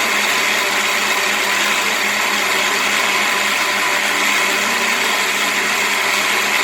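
Electric blender running steadily at high speed (setting 9), blending cooked carrots into a purée.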